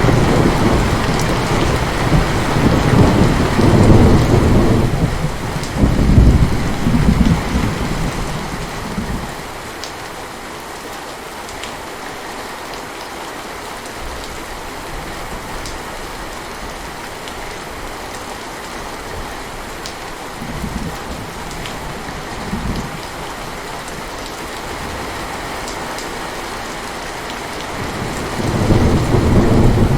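Steady heavy rain with rolling thunder. A long, loud rumble fills the first several seconds and dies away, a couple of short rumbles come around two-thirds of the way in, and another rumble builds near the end.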